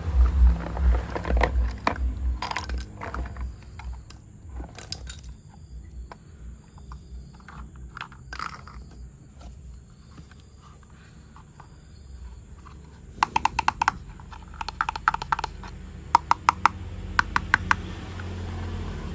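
Plastic toy parts being handled: a low rumble and knocks at first, scattered clicks and scrapes, then several quick runs of rapid clicking near the end.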